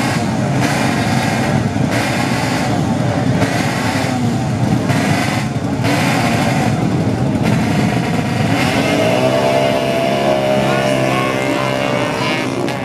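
Drag-race motorcycle engines revving loudly, with the pitch swinging up and down as throttles are blipped. From a little past eight seconds, one engine climbs to a high rev and holds it.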